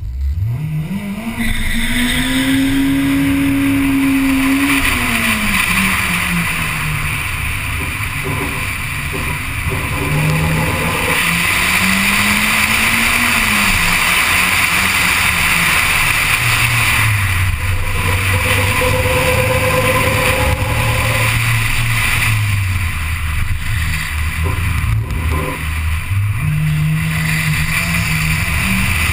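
Honda Civic race car's four-cylinder engine, heard from inside the car, launching and revving hard through a slalom run. The pitch climbs steeply in the first two seconds, holds high, then falls and rises again several times as the driver accelerates and lifts, over steady tyre and wind noise.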